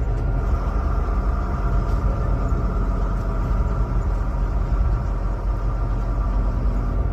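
A motor vehicle running steadily: an even low rumble with a faint steady hum above it and no change in pitch.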